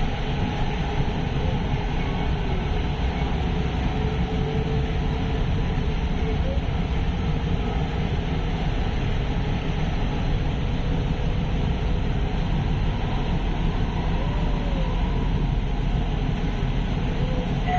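Elevated light-rail train running along its viaduct, heard from on board: a steady rumble of steel wheels on the rails with a faint, shifting whine.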